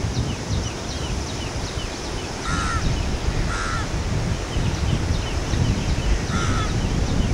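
Birds calling at a reservoir: three loud, harsh calls, two close together about two and a half seconds in and one more near the end, over a steady run of quick, high, falling chirps from smaller birds. A low rumble of wind runs underneath.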